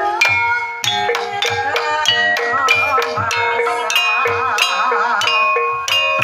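Javanese Banyumasan gamelan playing tayub music: struck metallophones ring out over low drum strokes, and a female sinden's wavering vocal line rises above them from about two seconds in to near the end.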